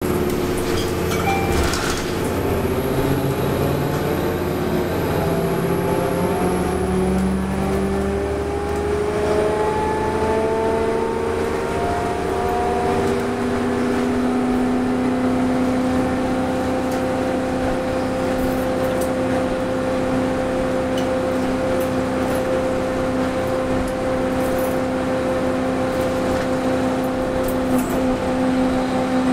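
Orion VII NG diesel transit bus running with a whining tone, the odd sound in question, that climbs in pitch for about the first dozen seconds and then holds steady.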